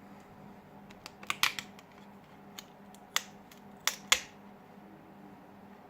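Plastic back cover of a Huawei P8 Lite clicking as it is pried off the phone's frame, with a few sharp, irregular snaps and ticks, the loudest near the end.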